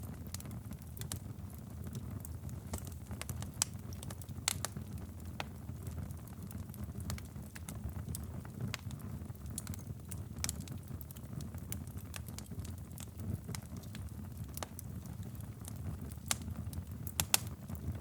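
Wood fire burning with a steady low rumble and irregular sharp crackles and pops, a few louder snaps among them.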